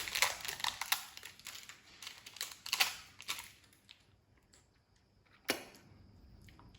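Irregular quick clicks and crinkling, like plastic or paper being handled, for the first three seconds or so. Then it goes quiet apart from one sharper click about five and a half seconds in.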